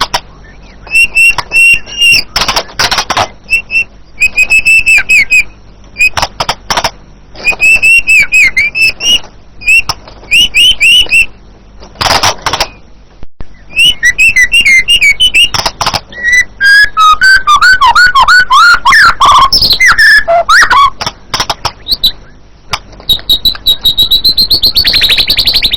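White-rumped shama singing: loud, varied whistled phrases and fast chattering trills, each phrase short and separated by brief pauses, with a high, rapid trill near the end.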